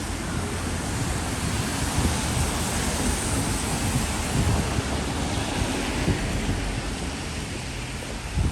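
Wind buffeting the microphone in a low, uneven rumble over the steady hiss of rain.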